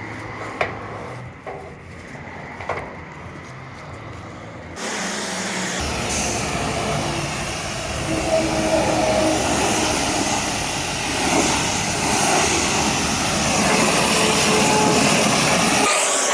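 Pressure washer spray: after a quieter stretch with a low hum and a couple of clicks, a loud steady hiss of the jet starts suddenly about five seconds in and keeps going.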